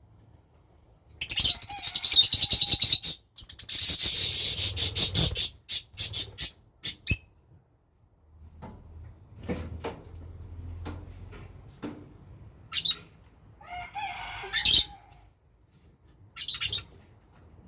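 Birds fighting: two loud bouts of rapid wing-flapping, then a run of sharp taps, and a few short calls near the end.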